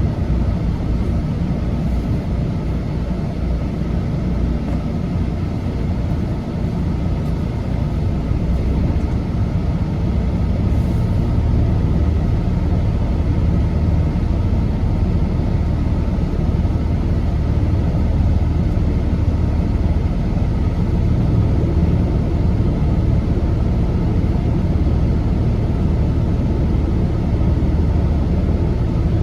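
Semi truck's diesel engine running steadily, a continuous low drone with road noise.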